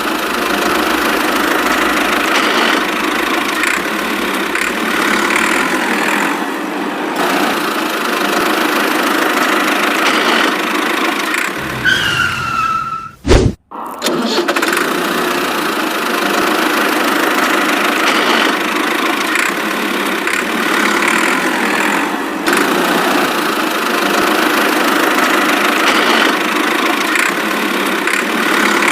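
A steady, engine-like running sound. About halfway through it is broken by a short falling whistle and a sharp click with a brief dropout, then the same running sound starts over.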